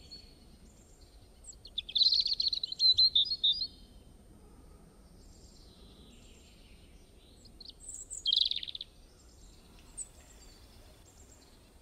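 Songbirds singing: a run of quick, high chirping notes about one and a half seconds in, lasting about two seconds, and a shorter burst around eight seconds in, over faint background hiss.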